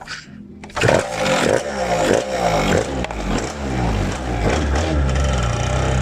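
A motorcycle engine revved again and again, each rev falling away, then settling into a steady low idle.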